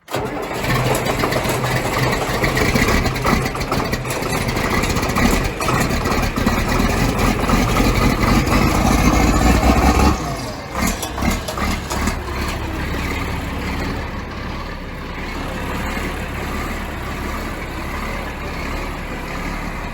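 John Deere 4630's turbocharged six-cylinder diesel running cold after five months of sitting. It runs loud and unsettled, which the owner reads as the engine not liking the cold start, then about ten seconds in it drops to a quieter, steadier idle.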